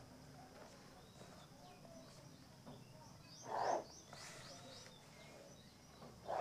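Faint birds chirping in the background, a quick run of short high chirps about halfway through, with one short louder sound about three and a half seconds in.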